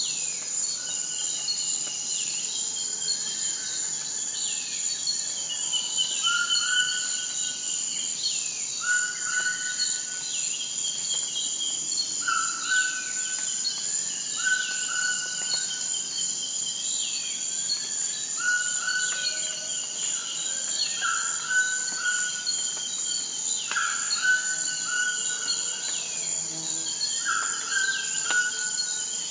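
A steady, high-pitched chorus of insects trilling, with a bird repeating a short call every couple of seconds over it.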